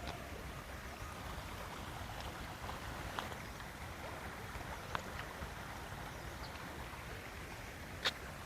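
Flowing stream running steadily, with three sharp clicks or knocks, the loudest near the end.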